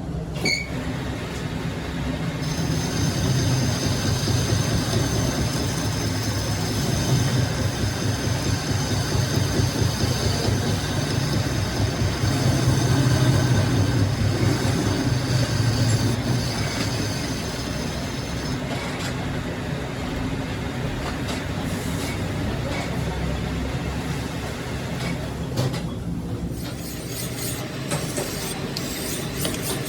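A workshop machine running steadily with a low rumble. A thin, high whine joins a couple of seconds in and drops out after about two-thirds of the way through.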